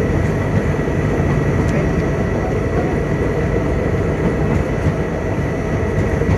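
Passenger train running: a steady, loud rumble of the wheels on the rails, with a thin steady whine over it.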